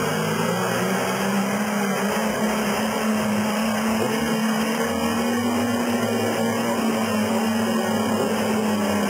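Toyota Land Cruiser FJ40's engine running at steady revs as the four-wheel drive crawls along a rough dirt track, a constant engine note with little change in pitch.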